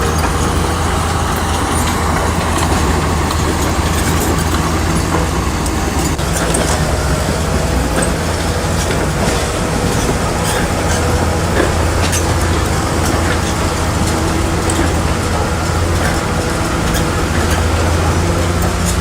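Shantui crawler bulldozer's diesel engine running steadily, with the clank and clatter of its steel tracks.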